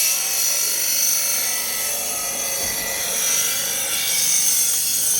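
Electric knife sharpener running steadily with a blade drawn through its level-1 slot, the motor's hum mixed with a high grinding.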